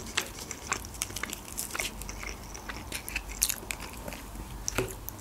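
Close-miked chewing of McDonald's chicken nuggets: the crisp breading crunches and crackles in many small, irregular clicks.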